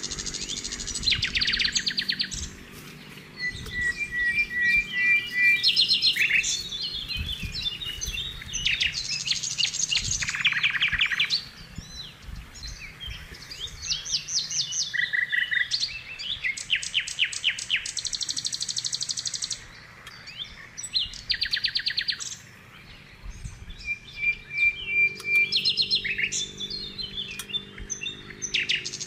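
Songbirds chirping and trilling in quick runs of repeated high notes, one bout after another with short pauses between them.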